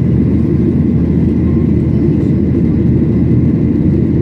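Steady low rumble inside the cabin of a Boeing 737-800 in flight: the CFM56 engines and the airflow over the fuselage, heard from a window seat.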